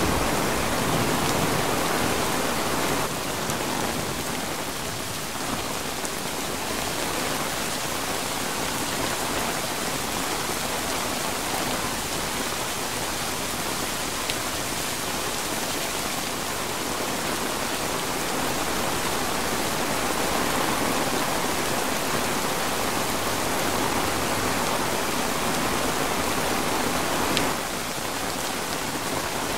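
Heavy rain falling steadily on a flysheet tarp shelter, an even hiss with no breaks. It drops slightly in level about three seconds in and again near the end.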